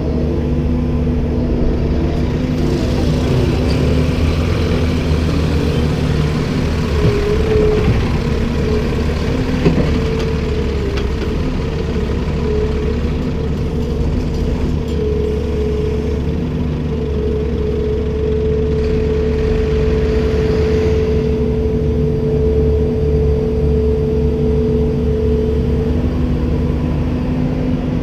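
Komatsu PC290-10 excavator's diesel engine running steadily with a steady whine that dips briefly in pitch a few times. A rushing hiss rises over it from a few seconds in to about nine seconds, and again around twenty seconds in.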